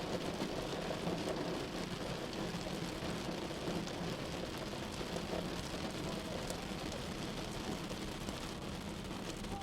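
Rain falling on a car's windshield and roof, heard from inside the car while driving, over a steady low road and engine noise.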